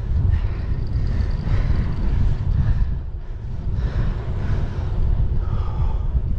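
Wind buffeting the microphone as a bike moves at about 25 miles an hour: a loud, uneven rumble with no clear engine tone.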